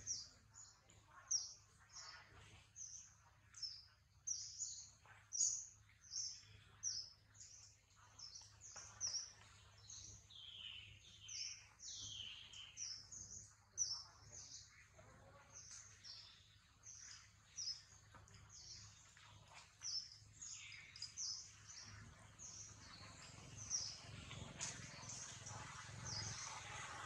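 Bird chirping over and over in short high-pitched notes, about two a second, with a few lower falling calls about ten to thirteen seconds in, over a faint steady low hum.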